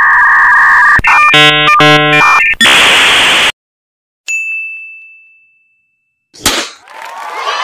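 Edited game-show sound effects: loud electronic buzzer tones and a pulsing jingle, then a burst of hiss. About four seconds in comes a single bright 'correct answer' ding that rings away, followed by a short whoosh and the start of crowd cheering near the end.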